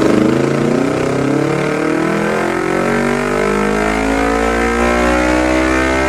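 Parallel-twin motorcycle engine through an aftermarket replica exhaust, loud from the start, its revs climbing slowly and steadily.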